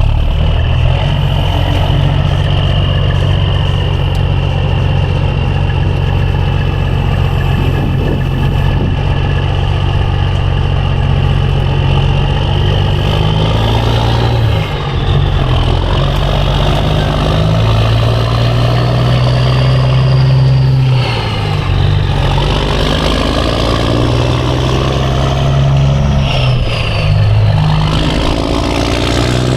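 Diesel semi truck engine pulling away and accelerating through the gears. The engine pitch climbs and drops back, with brief lulls at the shifts about halfway through and again a few seconds later.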